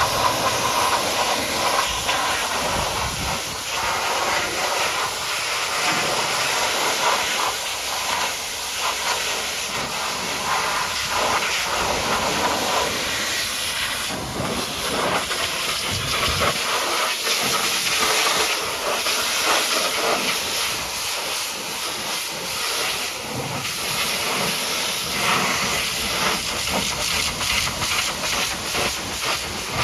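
High-pressure water jet spraying a muddy truck: a steady hiss that swells and dips a little as the spray moves.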